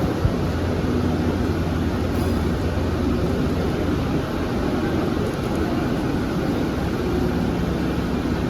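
Steady vehicle engine hum and traffic rumble, a constant low drone without sharp events.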